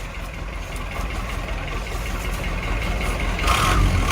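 A motor vehicle's engine running steadily with a low rumble, getting louder toward the end.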